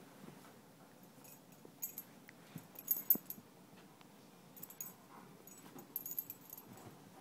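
Pet collar tags jingling in about five short bursts as an animal moves, the loudest about three seconds in.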